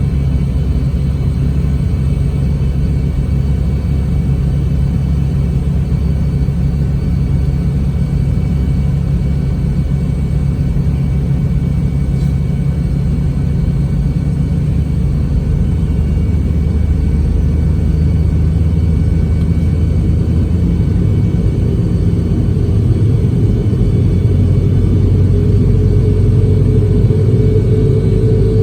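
Boeing 717's Rolls-Royce BR715 engines and cabin air, heard inside the cabin from a rear seat as a steady low rumble. Over the last few seconds a higher tone comes in and rises a little as the sound grows louder, as an engine spools up.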